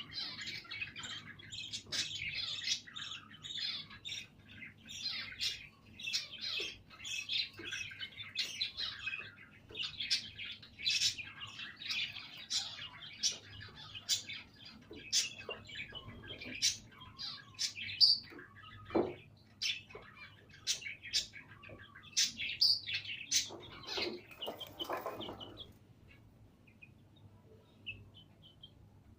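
A baby budgerigar and young chicks chirping and peeping: many rapid, overlapping short high calls that die away a few seconds before the end.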